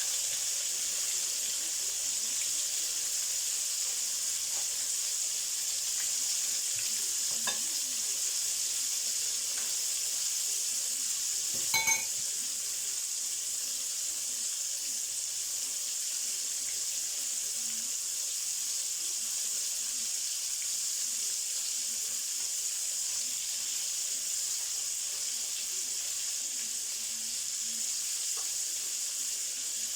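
Breaded chicken strips frying in hot oil in a pan, a steady sizzle throughout. A brief sharp knock about twelve seconds in.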